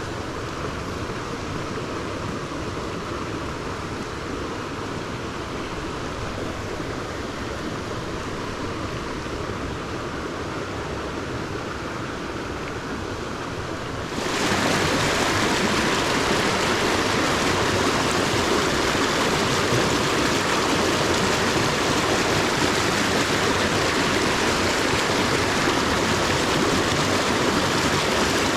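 Small rocky stream running, a steady rush of water over stones. About halfway through it suddenly becomes louder and brighter, and it stays that way.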